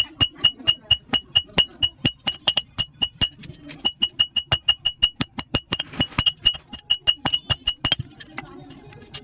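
Hammer blows on an anvil, about four or five a second, each with a bright metallic ring, as iron is forged for a pair of tongs. There is a brief pause about three and a half seconds in, and the hammering stops about eight seconds in.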